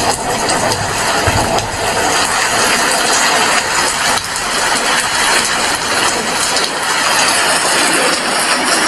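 Heavy rain falling steadily: a dense, even hiss with many small drop clicks through it.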